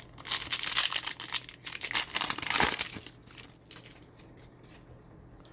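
Trading-card pack wrapper being torn open and crinkled, a dense crackle for about the first three seconds, then a few faint rustles.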